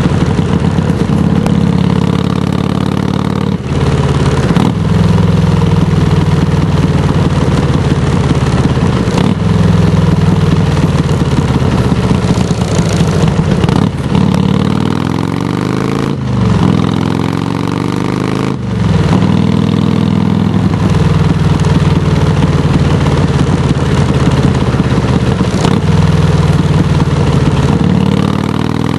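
Harley-Davidson touring motorcycle's V-twin engine running loud through Samson Silver Bullet mufflers. It idles between throttle blips, and the revs rise and fall several times, most clearly in the middle.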